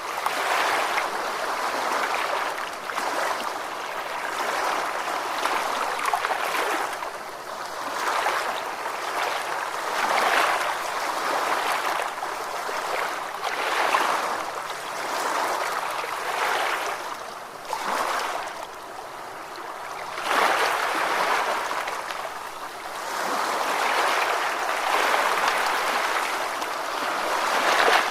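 Ocean waves washing in, the rush of water swelling and falling back every few seconds.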